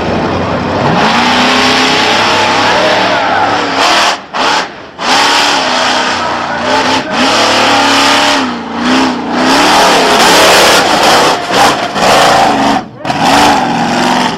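Monster truck engine revving hard, its pitch climbing and falling as the throttle is worked, with several abrupt brief cuts where the throttle is lifted.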